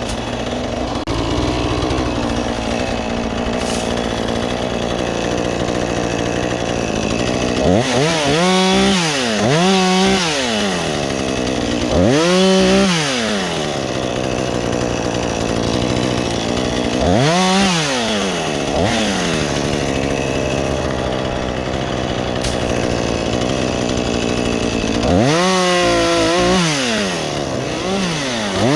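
Gas chainsaw bucking up a fallen tree, running steadily for the first several seconds, then its engine pitch rising and falling about six times as the throttle is opened and eased.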